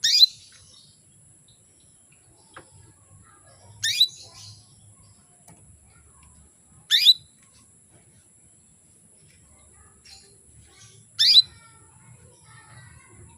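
Female domestic canary (hen) giving short, sharp contact calls, four times about three to four seconds apart, with a few faint chirps between. It is the call of a hen in breeding condition calling for a male.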